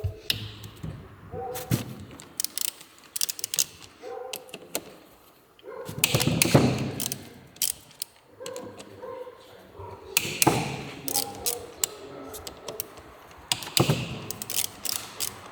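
Hand tools and small metal engine parts clicking, tapping and knocking during a motorcycle engine rebuild, with irregular sharp taps and a few duller thuds.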